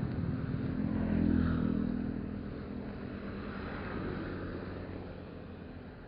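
A motor vehicle's engine running close by, swelling loudest about a second in and then fading away.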